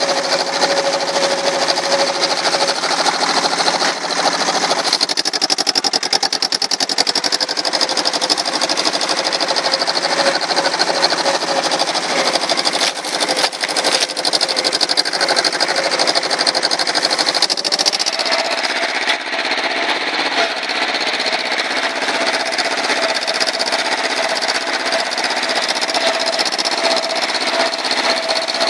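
A small engine running continuously with a fast, even pulse, its pitch shifting about five seconds in and again about eighteen seconds in as its speed changes.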